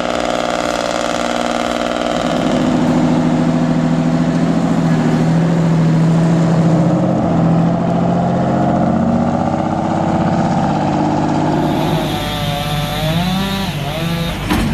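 Two-stroke Detroit Diesel engine of an old logging truck working hard under load with a loud, steady note. Near the end the sound changes, the pitch wavering up and down.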